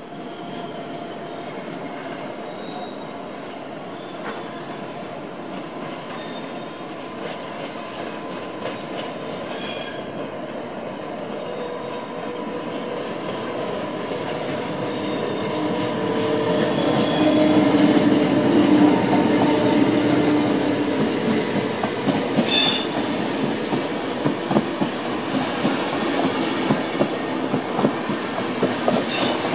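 SBB Re 460 electric locomotive and its double-deck intercity coaches running past on curved track, growing louder to a peak about halfway through as the locomotive goes by. Light wheel squeal on the curve, then the coaches' wheels clatter over rail joints in a regular rhythm near the end.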